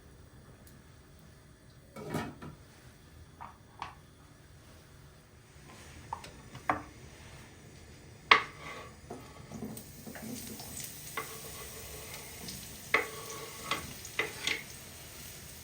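Kitchen utensils clinking and knocking against pots and dishes in a run of separate sharp strikes. About ten seconds in a steady frying sizzle starts under them.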